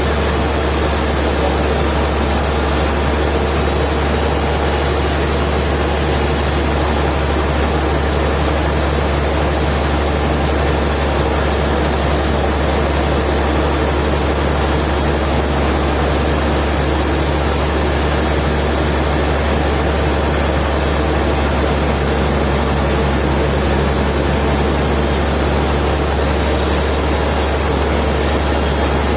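Sawmill machinery running steadily: a constant low hum under an even wash of mechanical noise, with no change in level.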